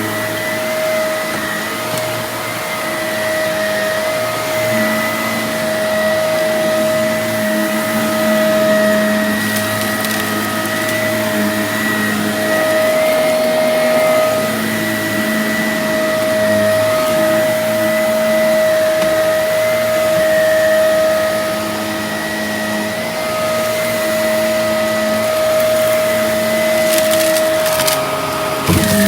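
Vacuum cleaner running steadily with a constant high motor whine, its lower tones wavering as it is worked over the floor. Brief crackling near the end, as debris is picked up.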